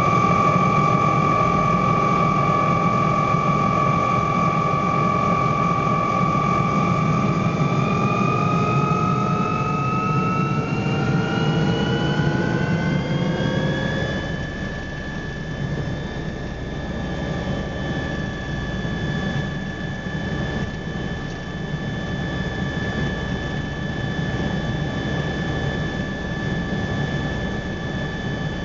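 MBB Bo 105 helicopter's twin turboshaft engines running with a steady turbine whine over a low hum. From about a quarter of the way in, the whine rises in pitch for several seconds as the engines spool up, then holds steady at the higher pitch.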